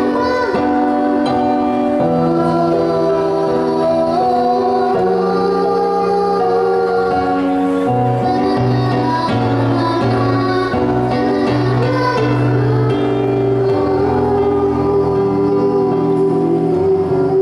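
A young girl singing a children's song over an instrumental accompaniment with a moving bass line.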